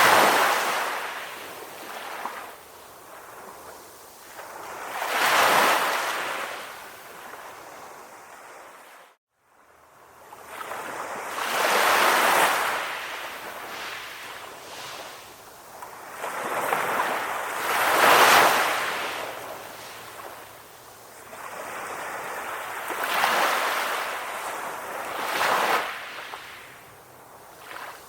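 Sea waves washing onto a shore, each wash swelling and ebbing about every five to six seconds. The sound cuts out to silence for about half a second some nine seconds in.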